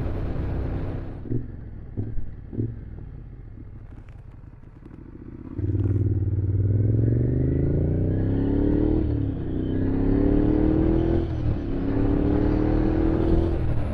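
Motorcycle engine dropping to a low idle, with a few light knocks. About five and a half seconds in it pulls away and accelerates through the gears, its pitch climbing in three runs with two short breaks for gear changes.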